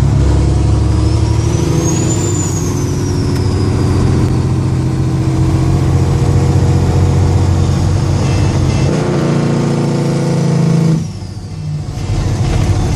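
Kenworth W900L truck's diesel engine running loud and steady on the road. Its note changes about nine seconds in, then drops away briefly about eleven seconds in before coming back.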